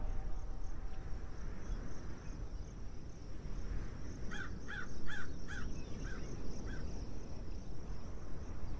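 A bird calling about six times in quick succession about halfway through, the calls growing fainter, over a steady high insect drone and low outdoor rumble.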